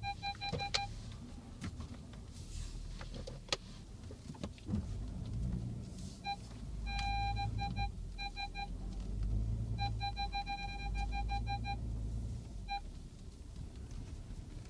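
Car parking-sensor warning beeping in short runs, the beeps coming faster until they nearly run together into a steady tone, then breaking off and starting again. Underneath is the low hum of the Passat R36's 3.6-litre VR6 at low speed, with a few sharp clicks in the first few seconds.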